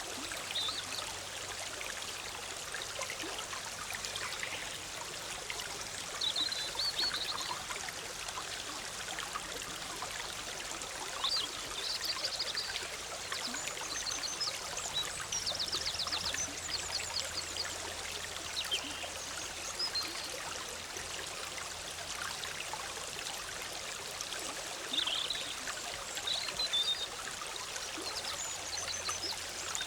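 Forest stream bubbling and splashing steadily over rocks. Songbirds chirp now and then above it, with a few rapid trills.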